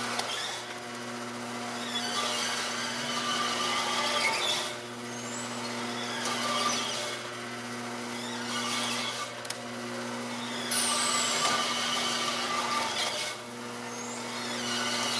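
Lantech Q-Auto roller turntable stretch wrapper running: a steady electric motor hum under a noisy mechanical whirr that swells and drops every few seconds, with a brief high squeak about eleven seconds in.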